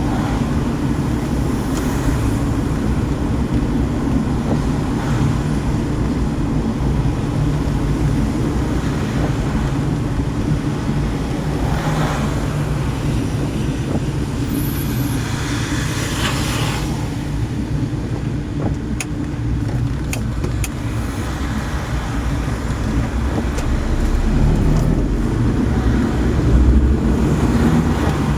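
Car driving on a wet road, heard from inside: a steady low engine and tyre rumble, with two brief hissing swells partway through.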